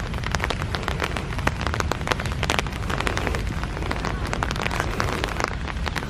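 Rain falling steadily: a dense patter of many separate drops striking close by, over a low rumble.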